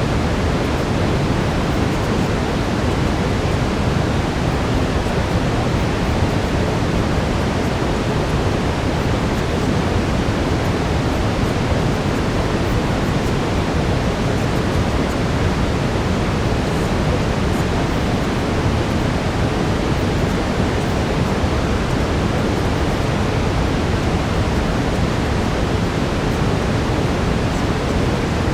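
Steady brown noise: an even, unchanging low rushing hiss with no events.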